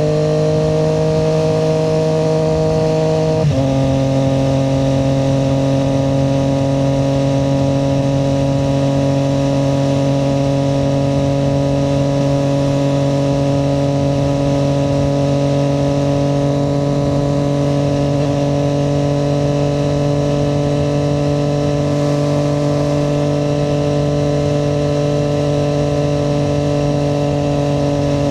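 Triumph Street Triple 765 RS's inline three-cylinder engine running at steady cruising revs. About three and a half seconds in, its pitch drops suddenly, as on an upshift, then it holds a steady note that rises only slightly.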